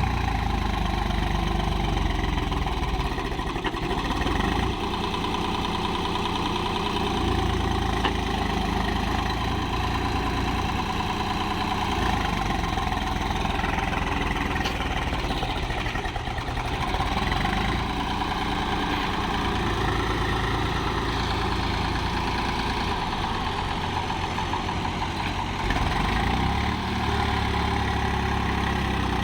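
Swaraj tractor's diesel engine running steadily, a little louder near the end.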